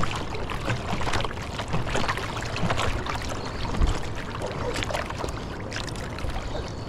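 Seawater splashing and lapping around a surfboard, with many small irregular splashes.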